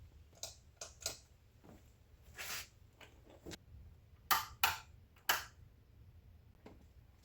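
A string of short, irregular clicks and knocks from hands working on something, about a dozen over several seconds, with three louder knocks a little past the middle.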